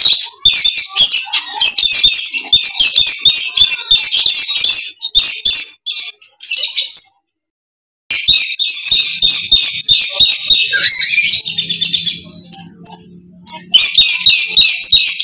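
Lories giving rapid, shrill, screeching chatter, used as a lure call for dusky lories. The calls stop dead for about a second partway through, then resume and thin out for a stretch before coming back thick.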